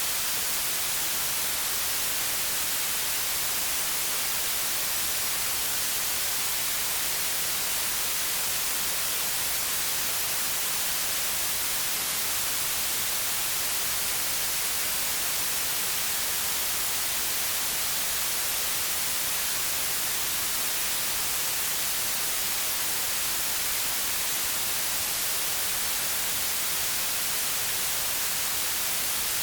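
Steady electronic white noise: an even hiss with no changes, strongest in the high frequencies.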